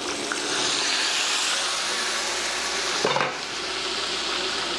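Chicken pieces frying in oil in an uncovered pan: a steady sizzle that swells as the lid comes off at the start. A brief knock comes about three seconds in, and a steady low hum runs underneath.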